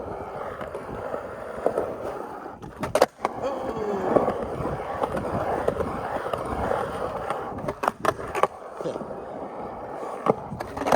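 Skateboard rolling on Spitfire Formula Four 101A hard urethane wheels, with sharp clacks of the tail popping and the board landing about three seconds in, around eight seconds, and again near the end.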